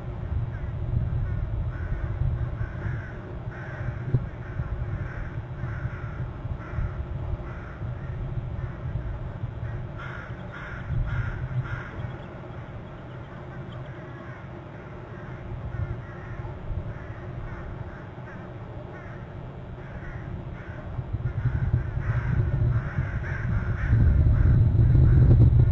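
A bird gives a run of short, harsh, crow-like calls, about one every second or less, in three spells with pauses between them. Under the calls is a steady low rumble that grows loud near the end.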